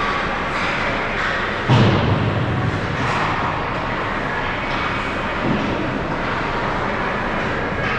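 Ice hockey rink ambience during a game: a steady wash of skating and arena noise, with a loud thud a little under two seconds in and a softer one about five and a half seconds in.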